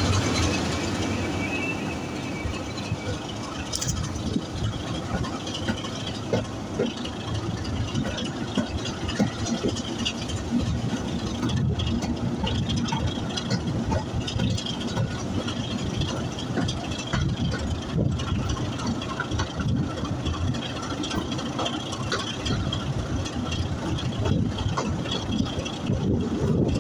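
Locomotive-hauled train running along the track: a continuous rumble of wheels and engine, with irregular clicks and rattles from the running gear.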